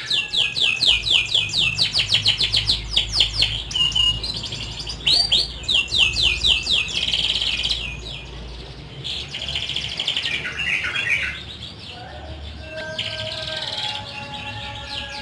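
Domestic canary singing in fast trills of repeated downward-sweeping notes and buzzy rolls, in a string of phrases with short breaks between them.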